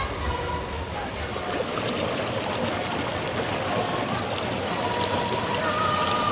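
Steady rushing, splashing noise of running water or rain, with faint held music tones coming in during the second half.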